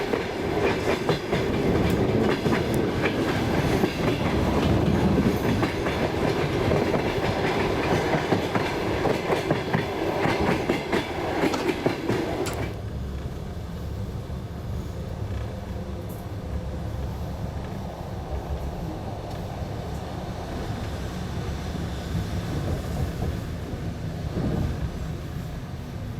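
Passenger train wheels clattering over the rails with a busy rattle of clicks. About halfway through the clatter cuts off abruptly, leaving a quieter, steady low rumble as the train runs on.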